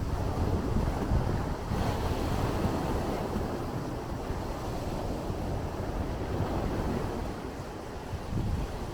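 Sea waves washing in, a steady surging hiss with a low rumble of wind on the microphone; a wave breaks with a brighter hiss about two seconds in.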